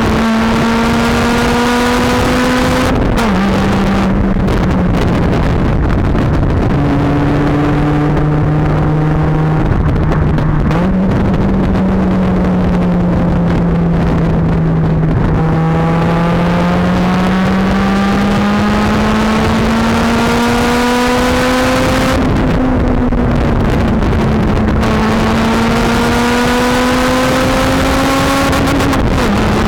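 Honda Civic Type R FN2's 2.0-litre four-cylinder engine through a Magnaflow exhaust, driving along. The engine note climbs slowly in pitch and drops sharply at gear changes a few seconds in, about three-quarters of the way through and near the end, with one sudden step up in pitch near the middle.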